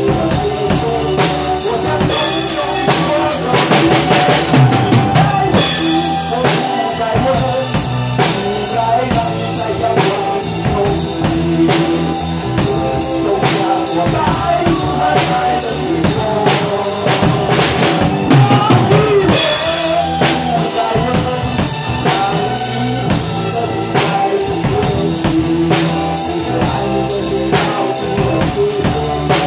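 A drum kit played along with pop-rock backing music: steady kick and snare hits, with crash cymbal washes about two seconds in and again near twenty seconds.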